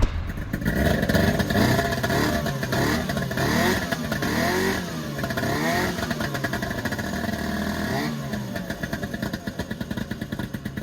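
Engine revving up and down several times, its pitch rising and falling in repeated swells, then settling to a steadier, pulsing run in the last few seconds.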